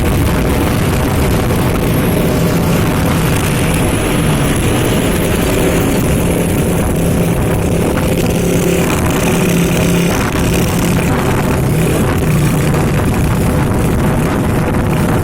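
Heavy trucks running past on a road, a loud, steady engine drone with road noise.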